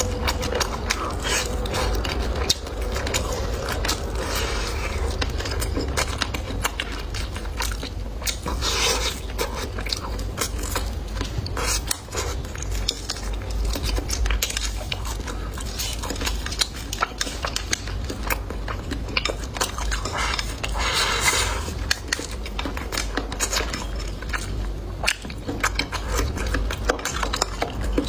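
Close-miked eating: a person biting into and chewing food in many small, dense clicks and crunches, mixed with scrapes and clinks of utensils on dishes.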